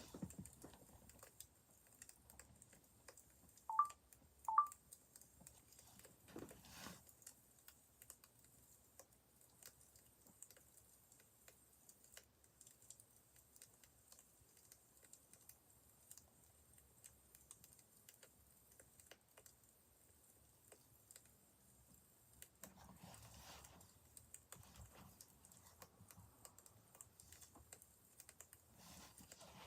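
Faint, irregular crackling of a wood fire, small ticks and pops scattered throughout. About four seconds in, two short electronic beeps sound half a second apart.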